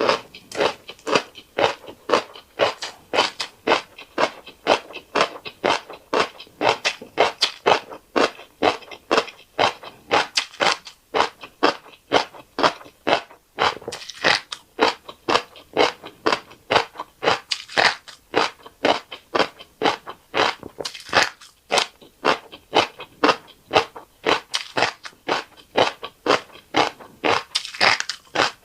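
Close-miked chewing with a crisp crunch on each chew, steady at about two to three chews a second: a mouthful of fish roe and rice being eaten.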